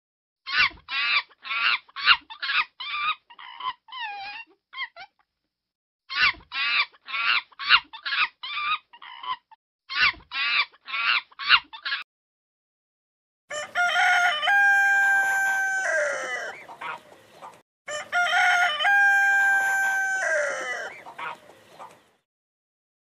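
Chicken clucking in three quick runs of short calls, about four or five a second, with abrupt silent gaps between them. Then two long rooster crows, each held on a steady pitch and ending in a falling note.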